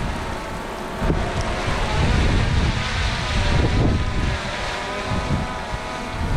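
Wind buffeting the microphone in gusts, growing stronger about a second in, over a faint steady hum.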